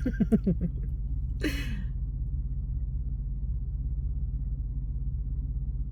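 A steady low rumble throughout, with a short falling vocal sound right at the start and a breathy sigh about a second and a half in.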